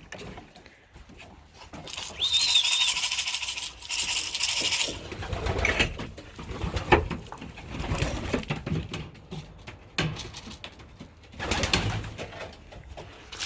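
Racing pigeons cooing, broken by a few bursts of rustling noise, the longest lasting about three seconds.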